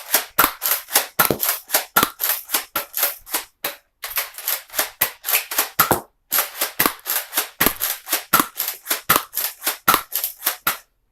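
Nerf Zombie Strike Doominator dart blaster fired over and over as fast as it will go: a rapid run of sharp clacks and pops, about four a second, with two short breaks, until it stops near the end as the last darts are fired.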